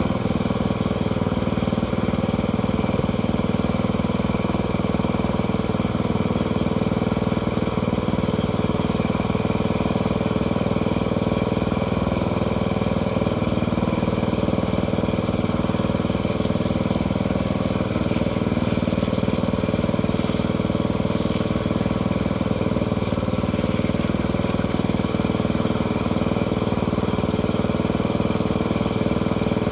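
Engine of a log-milling setup running steadily at a constant speed, with no change in pitch or load.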